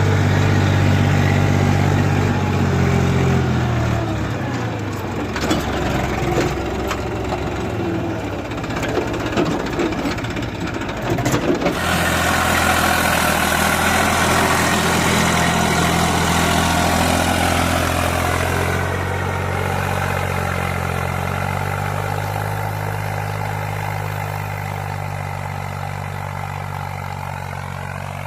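Diesel tractor engine running under way. Its pitch drops about three to four seconds in, the sound changes abruptly about twelve seconds in, and it then runs steadily, slowly fading toward the end.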